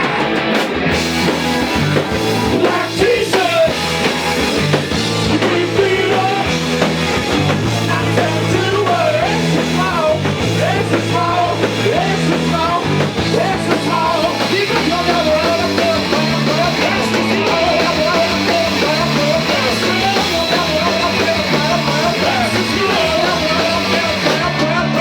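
Live rock band playing at full volume: drums, bass guitar and electric guitars. A bass line steps between notes about once a second, under a wandering lead guitar melody.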